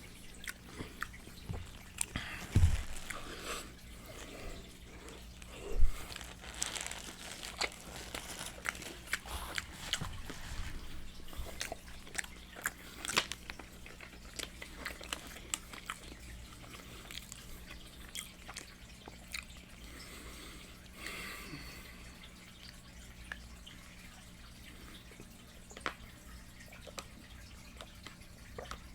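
Close-miked eating of Popeyes fried chicken: crispy breading crunching, chewing and wet mouth smacking in a steady stream of small clicks and crackles, with two louder low thumps about 3 and 6 seconds in.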